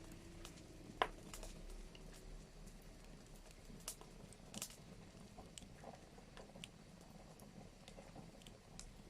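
Wood fire crackling in a fireplace: irregular, faint pops and snaps, the sharpest one about a second in.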